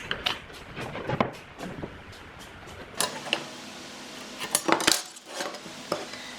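A series of sharp clinks and knocks, hard objects, some metallic-sounding, set down and handled, in little clusters with short ringing after some strikes.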